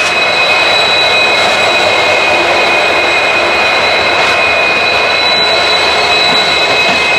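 Moving train heard from aboard an ICF passenger coach: a loud, steady running noise with two steady high-pitched tones over it.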